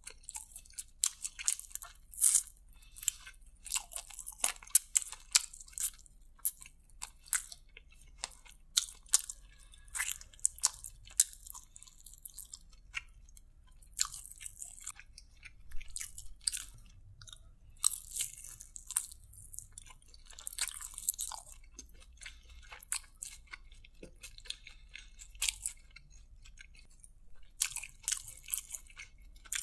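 Close-miked chewing and crunching of fried chicken lollipops, with many short, crisp crackles and smacks at an irregular pace.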